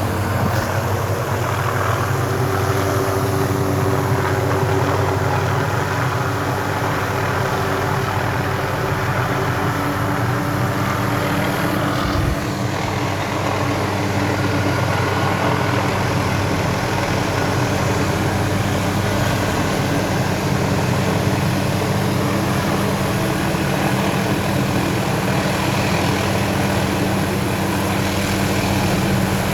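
A running engine's steady drone with a constant low hum, unchanged throughout, with a brief knock about twelve seconds in.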